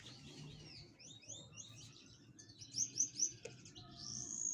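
Small birds chirping and twittering, with a quick run of short high chirps about three seconds in and a longer whistled note near the end.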